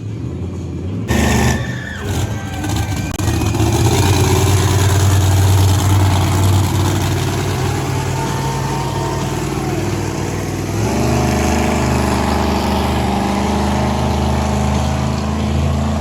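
Monster truck engine running loud under throttle, its note shifting to a steadier drone about eleven seconds in.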